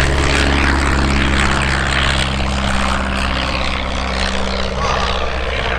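Propeller-driven aircraft's piston engine running, a loud, steady low drone with a slight shift in pitch partway through.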